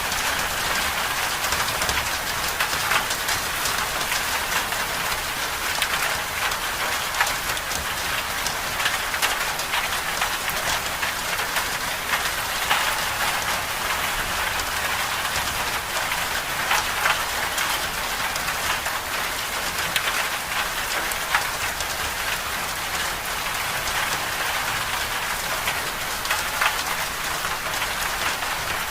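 Winter storm ambience: a steady, dense patter of falling precipitation, many small sharp ticks over an even hiss.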